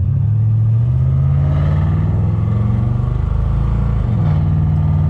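LS V8 engine of a 1989 Chevrolet Caprice pulling the car along the road, its pitch stepping up about a second in and dipping briefly then settling about four seconds in.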